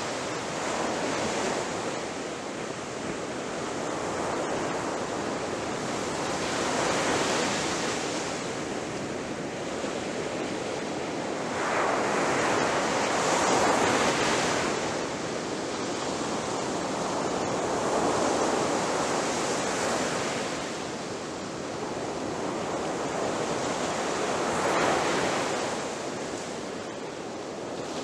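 Ocean waves breaking on a shore: a continuous hiss of surf that swells and ebbs as each wave comes in, with the biggest break about halfway through.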